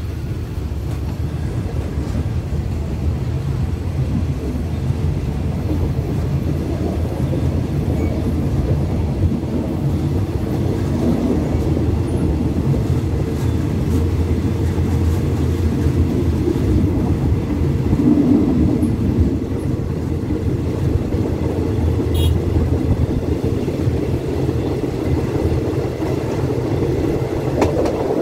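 Ordinary passenger train running along the track, heard from an open window of one of its coaches: a steady, low rumble of the wheels and carriages.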